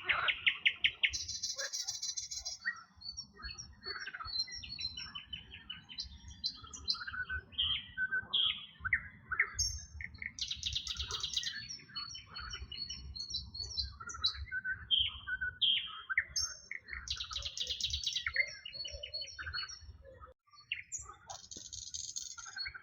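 Several birds singing together in a busy chorus of short chirps and whistles, with a fast buzzy trill that comes back about every six seconds. A steady low rumble runs underneath.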